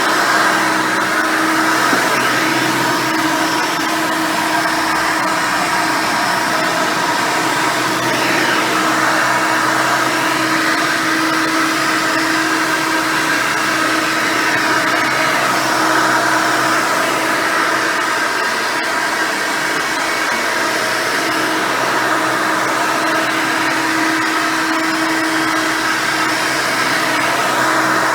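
Hoover Elite 600 upright vacuum cleaner, fitted with a single-row brush roll, running steadily while vacuuming. A constant motor hum and whine with a steady tone holds throughout.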